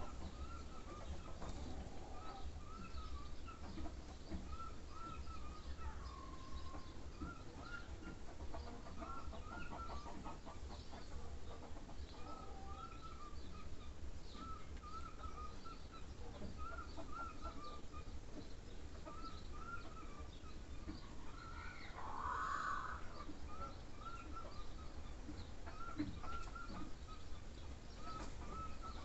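Birds calling in the background: a steady series of short, repeated chirping notes, with one louder call about twenty-two seconds in, over a low rumble.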